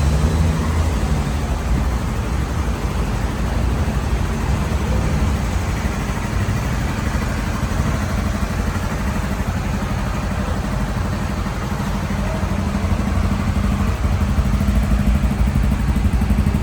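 Honda XRE 300 Rally's single-cylinder engine running steadily, a little louder near the end.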